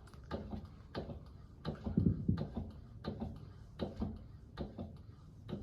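Hand pallet jack being pumped to raise a load: repeated clicks and knocks from the handle and pump at a steady pace, about one or two a second.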